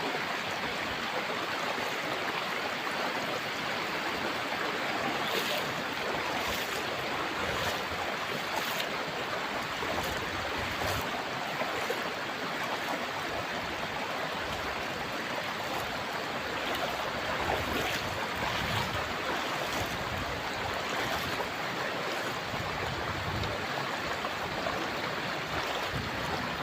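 Fast-flowing shallow river rushing steadily over rocks, with a few faint clicks now and then.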